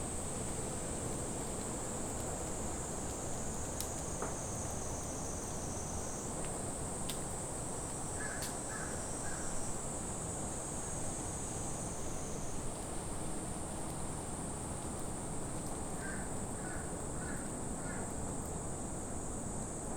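A steady high insect drone, with crows cawing in the distance: a series of three about eight seconds in, and four more about sixteen seconds in.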